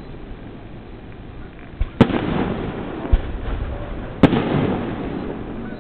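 Aerial fireworks bursting: two sharp bangs about two seconds apart, each trailed by a rolling rumble, with fainter low thuds between them.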